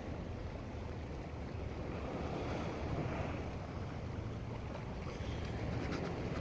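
Strong, gusty wind blowing across the microphone, with lake water lapping and splashing under it.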